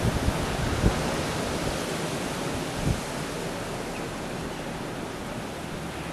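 Blizzard wind driving blowing snow: a steady hiss, with a few low buffets of wind on the microphone in the first three seconds.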